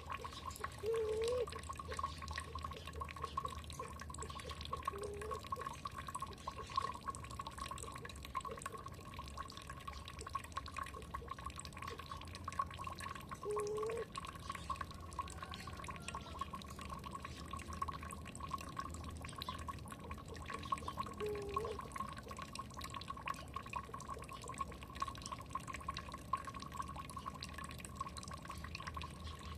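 Water dripping and trickling in a steady patter of small drops, with a few short, low, rising bird calls now and then.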